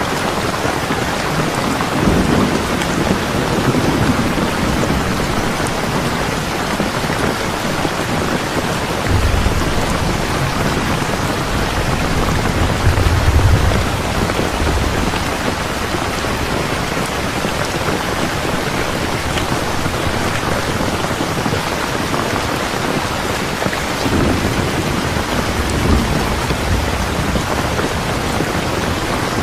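Steady heavy rain with rolls of thunder: a low rumble a couple of seconds in, a longer, louder one around the middle, and another near the end.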